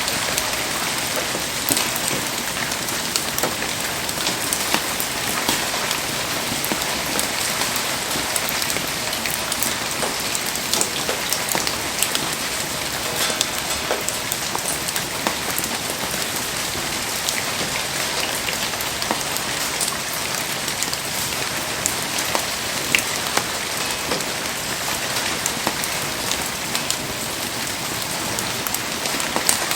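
Heavy rain falling steadily, a dense hiss of rain with many sharp drop ticks throughout.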